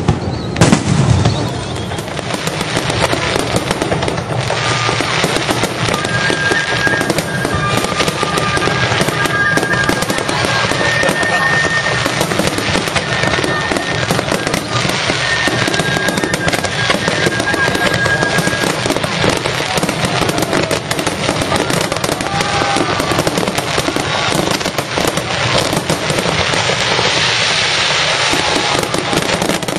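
Fireworks display: a couple of loud shell bursts with a low boom about a second in, then a dense, continuous crackling of many bursting shells.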